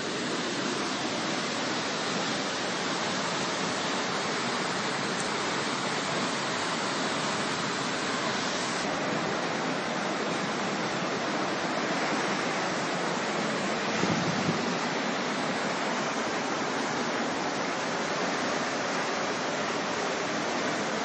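Fast-flowing floodwater rushing steadily, a continuous even wash of water noise.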